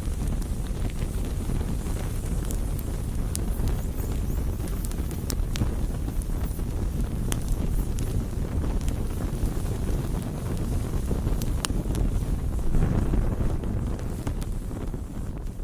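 Wood fire burning, with a steady low rush and many sharp crackles and pops, a swell about thirteen seconds in, then fading out near the end.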